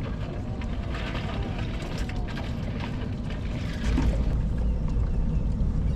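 Open-air noise on a fishing boat: a steady low rumble of wind and water that grows louder about four seconds in.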